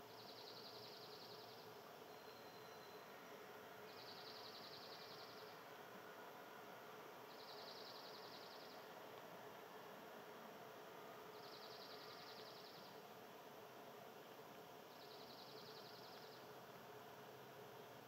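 A small songbird's high, rapid trill, each about a second and a half long, repeated five times every three to four seconds. It is faint, over a steady low hiss.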